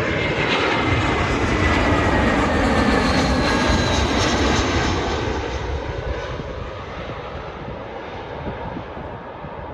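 Airbus A320 jet airliner passing on its landing approach, its engine noise carrying a faint falling whine, loud at first and fading away over the second half.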